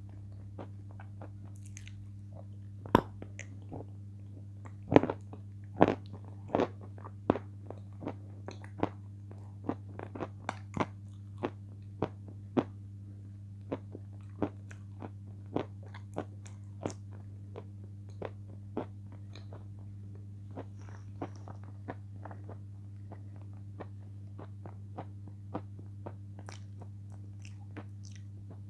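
Close-miked chewing with sharp, crisp crunching clicks, about one or two a second. They are loudest in the first several seconds and grow gradually softer, over a steady low electrical hum.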